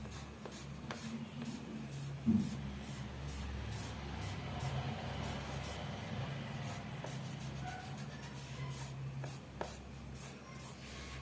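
A drawing tool scratching and rubbing on paper in quick repeated strokes, over a steady low hum. One louder knock a little over two seconds in.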